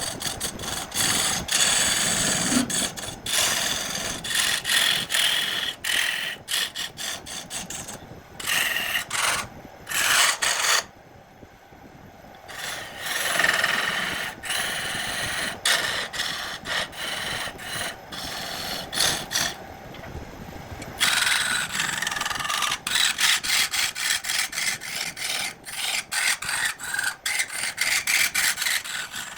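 Hand abrasion of a workpiece, scraping strokes in spells of a few seconds like sanding or filing, with short breaks about eleven and twenty seconds in.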